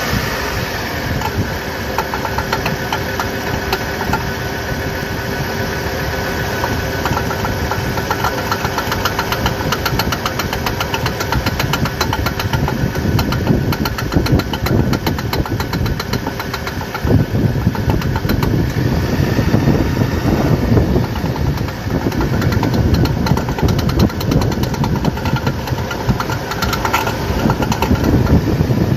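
Vehicle running with a rapid series of clicks and knocks over the engine sound, the clunking of a worn drive shaft universal joint. The sound grows louder and heavier a little over halfway through.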